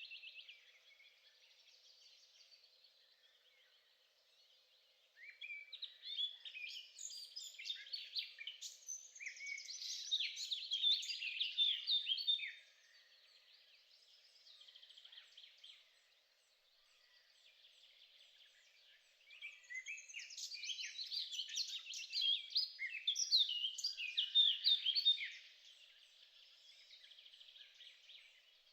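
A songbird singing in two long bouts of rapid, varied high chirps and trills, with quieter scattered chirps in between.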